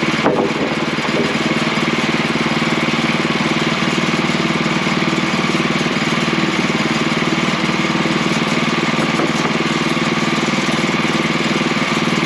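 Portable sawmill's engine running steadily at a constant speed, with a single knock about a quarter second in.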